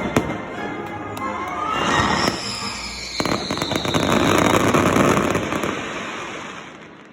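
Fireworks going off: sharp cracks at first, then a whistle falling in pitch about two seconds in, and a dense rush of crackling bursts, loudest around the middle, that fades away near the end.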